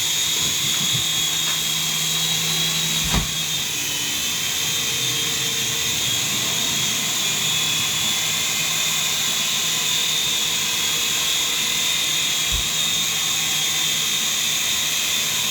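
Small indoor RC helicopter in flight, its electric motor and rotors giving a steady, high-pitched whine. There is a light knock about three seconds in and another faint one near the end.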